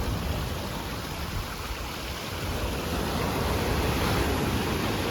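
Steady rushing noise of surf breaking on the beach with wind on the microphone, swelling a little about three seconds in.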